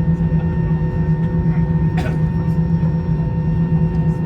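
Steady drone of an Airbus A321's engines heard inside the cabin while taxiing, a low hum with several steady tones above it. A single short click about halfway through.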